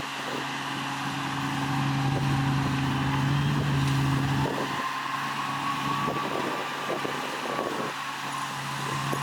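Heavy diesel engine of earthmoving machinery running, working louder for a couple of seconds and then easing off about four and a half seconds in. A faint high whine follows and lasts to the end.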